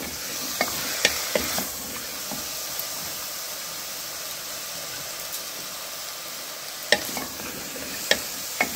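Chicken and cabbage, carrot and papaya sizzling in butter in an open pressure cooker, a steady frying hiss. A wooden spatula stirs and knocks against the pot in the first couple of seconds and again near the end.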